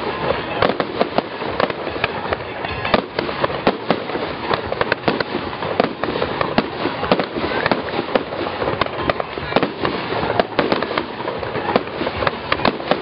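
Fireworks display going off: a dense, unbroken run of sharp bangs and pops, several each second.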